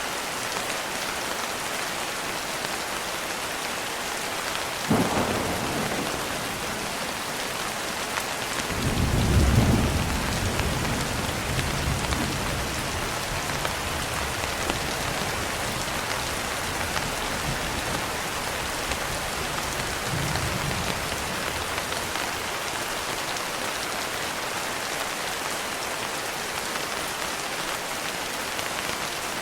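Steady rain falling on a window, with thunder: a sharp crack about five seconds in, then a low rumble about nine seconds in that rolls on for several seconds, and a fainter rumble near twenty seconds.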